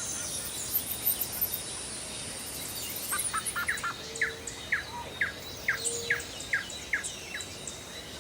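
Wild bird calling: a run of short, quick falling notes, about two a second, starting about three seconds in, with fainter high chirps, over a steady high hiss of outdoor background.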